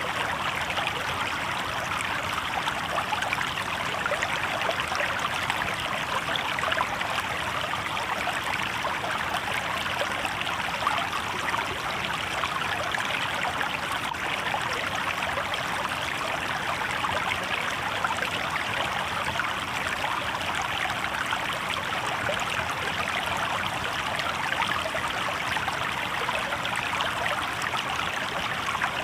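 Shallow river babbling steadily over rocks: an even, unbroken rush of running water.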